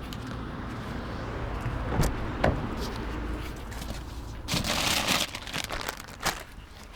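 Wind rumbling on the microphone, with two light knocks about two seconds in and a short rustle about halfway through.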